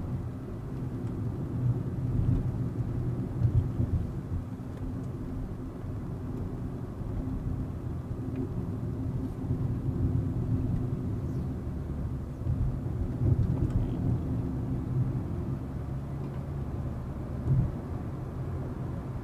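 Volkswagen Vento's turbocharged 1.2 TSI four-cylinder engine pulling along with road rumble while driving, a steady low drone whose pitch shifts a little with small swells in loudness.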